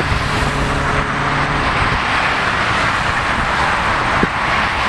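Steady din of jet engines and road traffic, with a faint low hum in the first second and a half.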